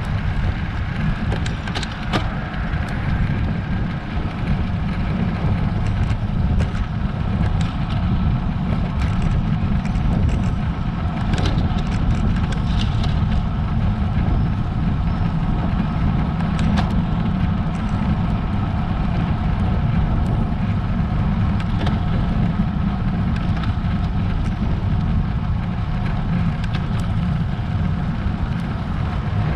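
Steady low wind and road rumble on a road bike's action-camera microphone while climbing, with scattered faint clicks.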